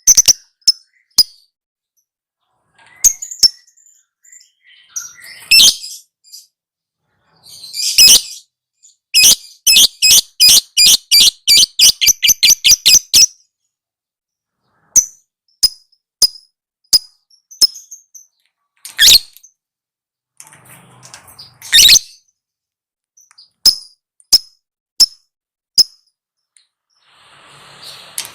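Lovebird singing in sharp, high chirps separated by short silences. From about nine to thirteen seconds in it runs into a fast chatter of about four chirps a second, with a few longer, louder calls before and after.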